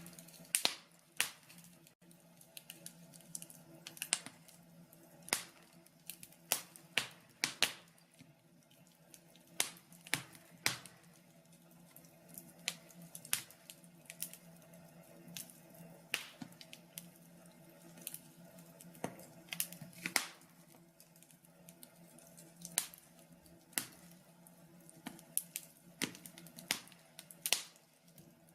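Wood fire crackling in a log burner: irregular sharp pops and snaps from the burning logs, some in quick clusters, over a faint steady hum.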